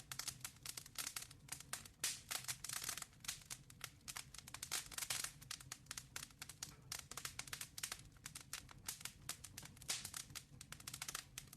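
Wood fire crackling in a fireplace: dense, irregular pops and snaps throughout, over a faint low hum.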